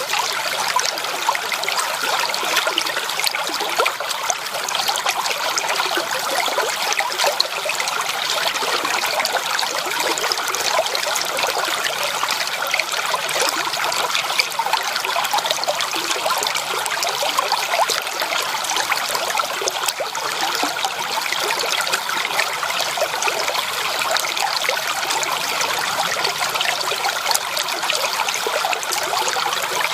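Stream water running and trickling, a steady bright splashing rush that never lets up.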